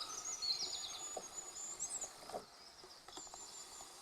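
Small songbirds singing: high repeated chirps and thin trills, one ending in a quick flourish about halfway through. There are a few faint knocks underneath.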